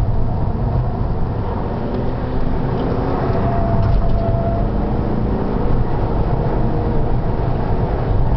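Seat Altea FR's engine running hard at track speed, heard on board with steady road and wind noise.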